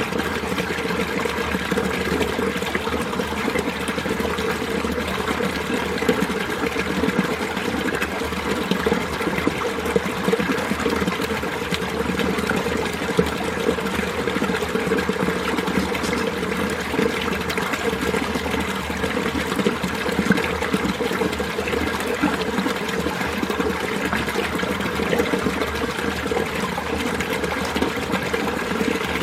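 Winter mountain valley stream running steadily, its water gurgling without a break.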